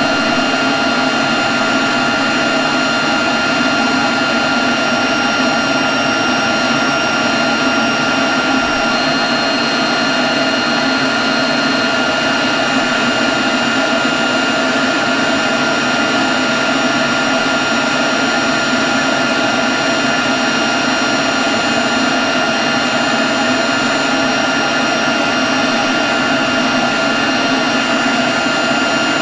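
Leaf blower running steadily at constant speed: a loud rushing blast of air with steady high-pitched whines over it, unchanging throughout.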